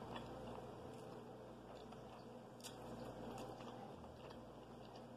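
Faint chewing and wet mouth clicks while eating seafood, over a low steady hiss, with a few sharper clicks near the middle.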